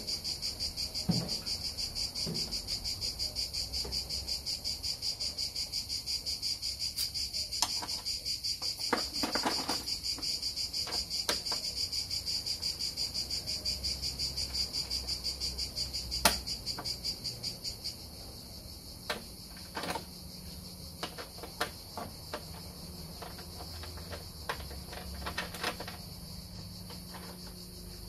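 Crickets chirping in a fast, even pulse of about three chirps a second, which gives way to a steadier, softer trill about two-thirds of the way through. Scattered short clicks and knocks sound over it.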